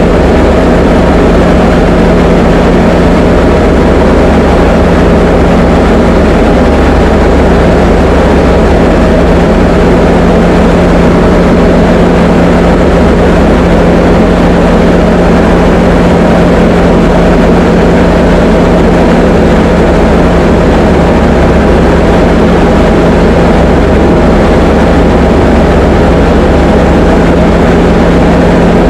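Diamond DA20 light aircraft's piston engine and propeller running steadily, a loud constant drone with an even low hum and no change in power.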